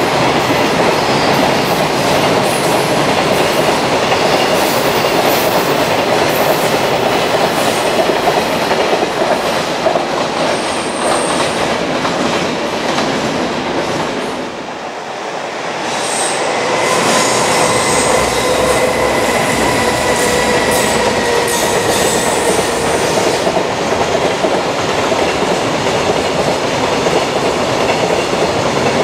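Long container freight trains rolling past on slab track, the wheels clattering over the slab and rail joints. The sound dips briefly about halfway through, then picks up again as another train passes, with a thin wheel squeal for several seconds.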